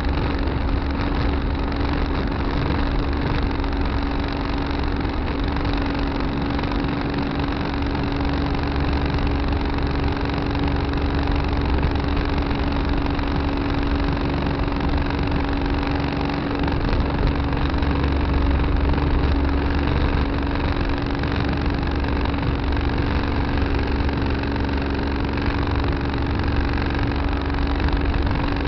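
Tractor engine running at a steady speed, with a constant hum and a strong low drone that does not change.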